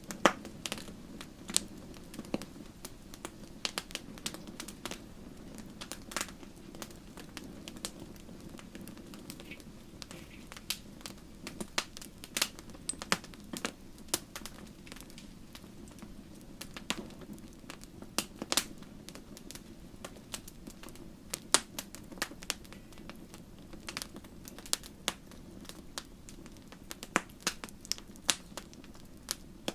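Wood fire crackling: irregular sharp pops and snaps over a steady low hiss of burning.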